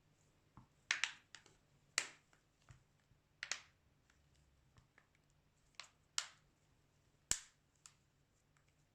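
A string of sharp, irregular plastic clicks and snaps from a smartphone being handled during a screen replacement, about eight of them with gaps of half a second to a second, the sharpest one near the end.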